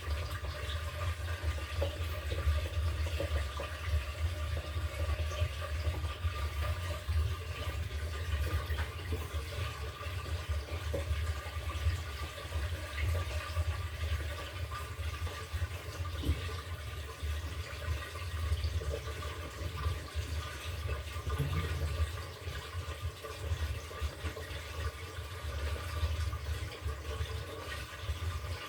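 LG top-loading washing machine mid-cycle: a steady rush of moving water over a constant low hum from the machine.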